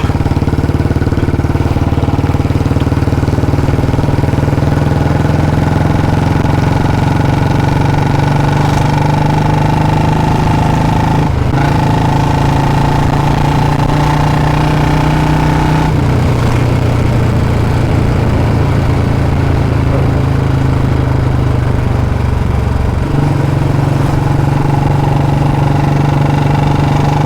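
Royal Enfield Bullet 350's single-cylinder engine running through a free-flow C-bend pipe and short Punjab silencer while riding: a loud, steady exhaust beat. It breaks briefly about eleven seconds in, the note drops around sixteen seconds and climbs again near the end as the throttle or gear changes.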